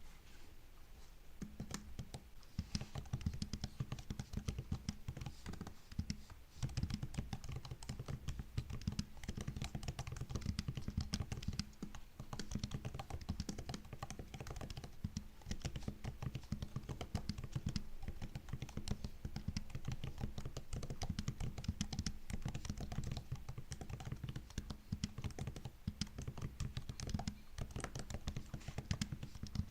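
Typing on a MacBook laptop keyboard: a fast, continuous stream of key clicks that starts about two seconds in, broken by a couple of short pauses.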